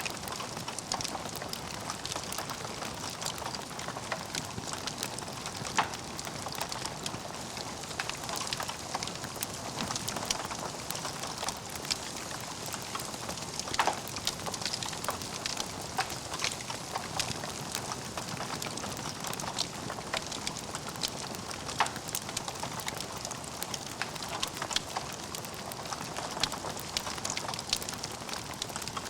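Wood fire in a fireplace burning with steady, dense crackling, with a few louder pops standing out.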